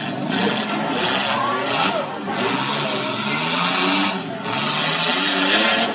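Several demolition derby car engines revving hard, pitch rising and falling as the cars push against each other, with a loud steady hiss over them. Voices are mixed in under the engines.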